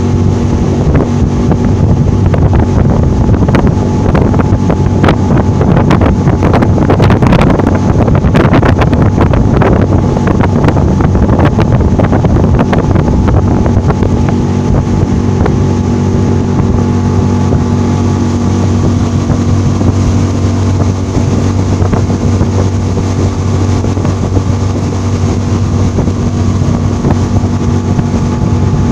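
Suzuki DF15A four-stroke outboard running steadily at speed, pushing a loaded boat. Wind noise on the microphone, with a patch of irregular knocks and splashes in the first twelve seconds or so.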